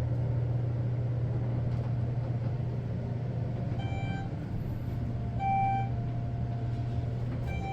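Elevator cab travelling down with a steady low hum from its machinery. A short electronic beep sounds about four seconds in, another a second and a half later, and a third near the end: the car's floor-passing signal.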